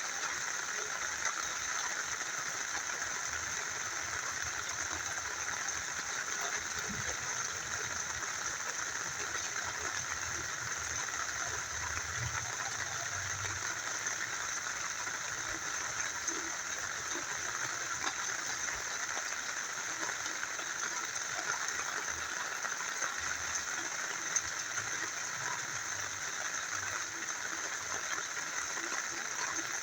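Rain falling together with a small river flowing: a steady, even rush of water with a few faint drips and ticks.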